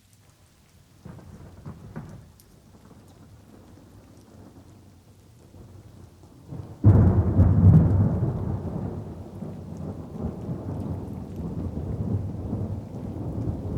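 Thunderstorm with light rain: a low rumble of thunder starts about a second in, then a sudden loud thunderclap about seven seconds in rolls on and slowly fades while the rain keeps falling.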